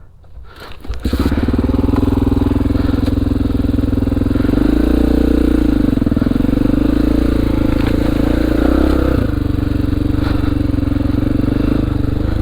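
2002 Honda XR400R's four-stroke single-cylinder engine firing up about a second in and then running steadily, its revs shifting for a few seconds in the middle before settling again.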